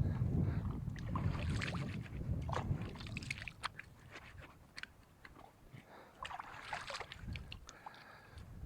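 Gusts of wind buffeting the microphone with a low rumble, strongest in the first few seconds, over scattered rustling and small clicks of handling close to the microphone.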